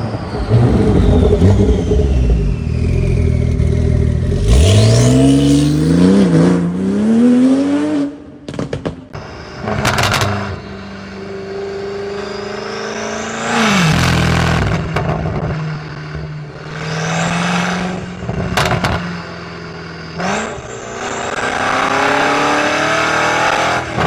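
Performance car engines revving and accelerating, one after another, with the engine pitch sweeping up and down. The sound changes abruptly several times as one car gives way to the next.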